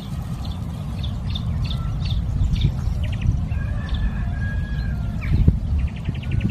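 Birds chirping, with many short calls throughout, over a steady low rumble.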